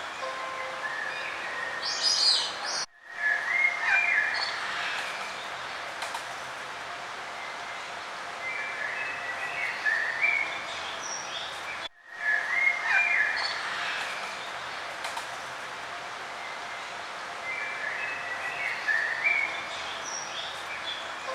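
Several small birds chirping and singing in short phrases over a steady background hiss. Twice the sound drops out for an instant, about nine seconds apart, and the same stretch of birdsong then repeats, as in a looped recording.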